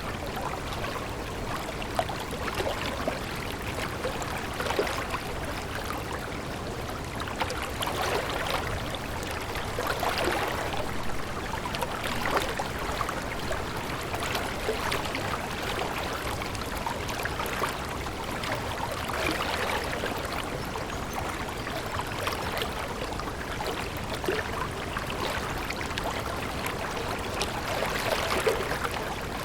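A small stream running and trickling: a steady babble of water with many small irregular splashes and gurgles.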